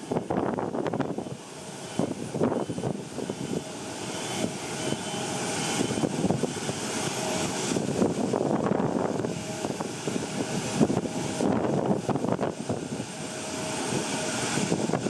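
Jet airliner engines running with a faint steady whine, heard through heavy, gusty wind noise on the microphone.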